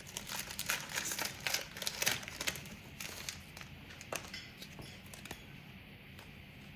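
Trading cards being handled and flipped through by hand: a quick run of light clicks and rustling for about the first three seconds, then only the odd click.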